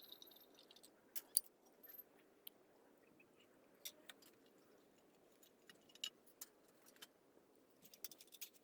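Faint, scattered small clicks and taps at irregular intervals over a low hiss, the sharpest about a second and a half in.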